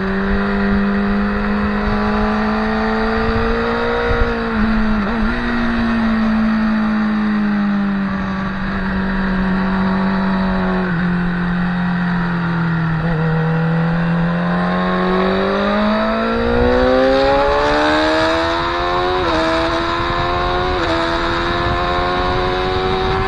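Onboard sound of a motorcycle engine at track speed. Its pitch holds steady, falls with downshifts around 4–5 seconds and 11–13 seconds in, then climbs steadily under hard acceleration, with two upshifts near the end.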